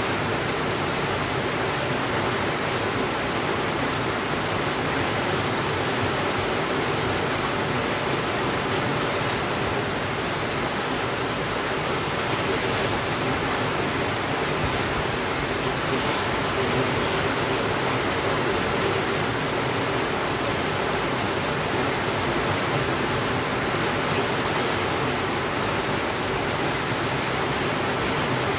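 Steady rainfall: an even, unbroken hiss that holds at one level throughout.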